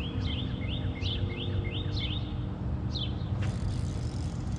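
A songbird singing: a quick run of about six rising whistled notes in the first two seconds, then a few single falling notes, over a steady low rumble.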